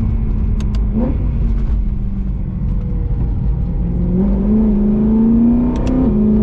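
BMW E92 M3's V8 engine, heard from inside the car while it is driven gently on a not-yet-warm engine. The drone is steady, with a short rise in revs about a second in, then the revs climb for about two seconds and drop suddenly near the end.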